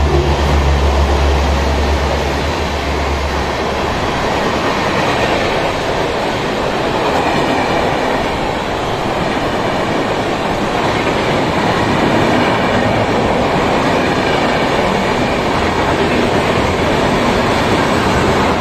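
Indian Railways express train hauled by an electric locomotive running through the station at speed. A strong low hum drops away about three seconds in, and under it the coaches' wheels make a loud, steady rush on the rails as the coaches stream past.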